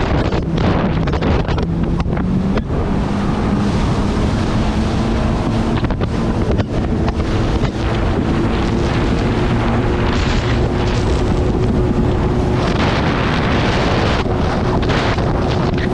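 Jet ski engine running steadily on the water, with heavy wind buffeting the microphone. Its engine note steps up a little about two seconds in.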